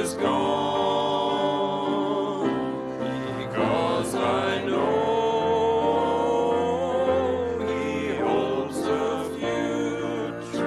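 Worship music in a church service: voices singing a slow hymn-like song over sustained instrumental accompaniment.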